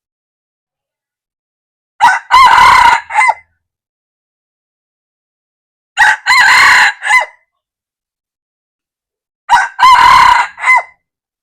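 Red junglefowl rooster crowing three times, a few seconds apart; each crow is a short clipped phrase ending in a brief tail note.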